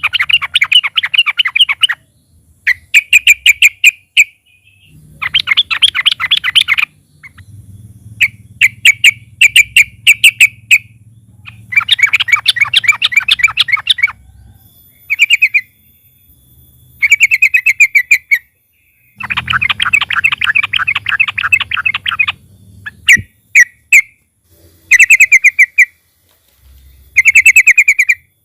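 Yellow-vented bulbul (trucukan) singing loudly in repeated bursts of fast chattering notes, some long rolling runs of two to three seconds and some short phrases, with brief pauses between them.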